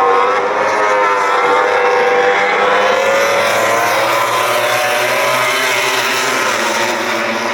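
MotoGP race bikes running on the circuit: several engines at high revs overlap, their pitch rising and falling.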